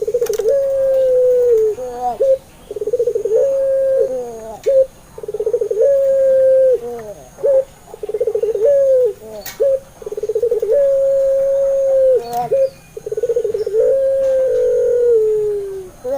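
Puter pelung dove cooing over and over, about every two seconds. Each coo opens with a quick trembling rattle and then a long held note that drops away at the end.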